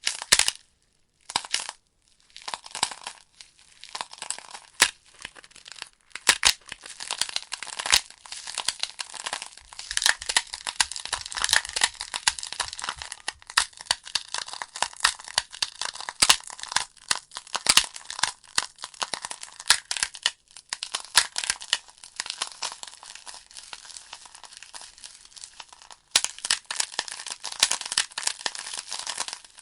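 Wood logs burning in a fireplace: a hiss of flame with frequent, irregular sharp crackles and pops from the burning wood.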